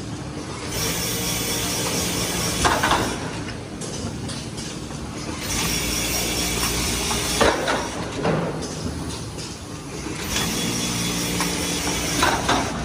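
Automatic microfiber towel cross-sewing machine running in repeating cycles, one about every five seconds. Each cycle has a steady motor run and ends in a short, louder burst of noise.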